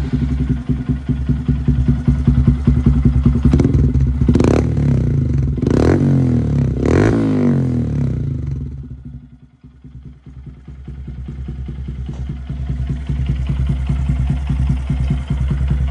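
Single-cylinder Honda Grom engine running through an aftermarket Zoom loop exhaust, idling just after a cold start. The throttle is blipped three times in the middle. Then the sound drops away sharply for a moment and builds back up to a steady idle.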